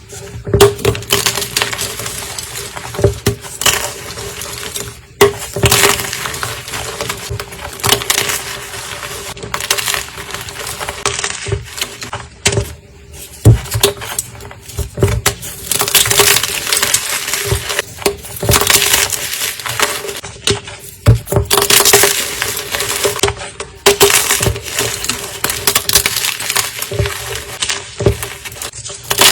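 Fresh blocks of gym chalk being crushed: crisp crunching and crumbling in repeated bursts a few seconds long, with short pauses between them.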